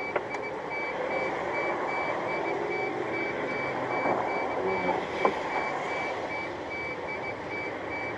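Electronic warning beeper sounding a steady run of evenly spaced, high-pitched beeps over a background of traffic noise, with a couple of faint knocks in the middle.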